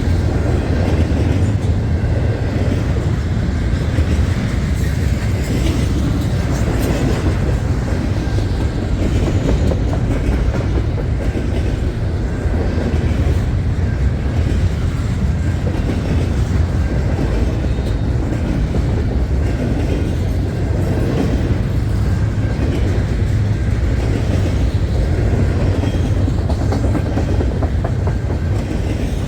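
A long freight train of loaded double-stack container well cars rolling past, a steady loud rumble with the clickety-clack of steel wheels over rail joints.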